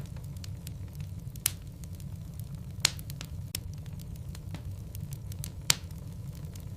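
Wood logs burning in a fireplace, crackling with many small ticks and three sharp louder pops, over a steady low rumble.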